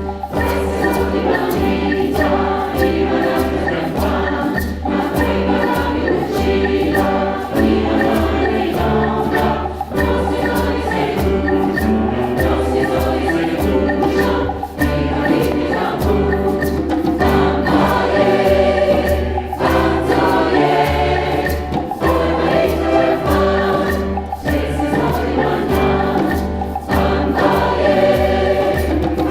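A choir singing in Papiamento, with hand percussion keeping a steady beat under the voices.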